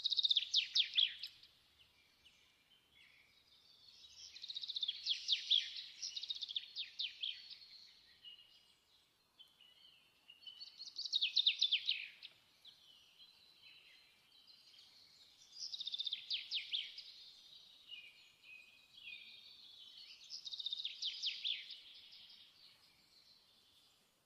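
Songbird singing: five loud bursts of quick, high, falling chirps, about five seconds apart, with softer twittering between them.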